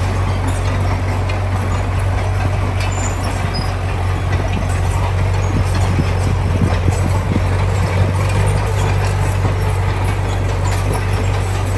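Heavy diesel engine of construction machinery running steadily under load, with scattered short knocks and clanks.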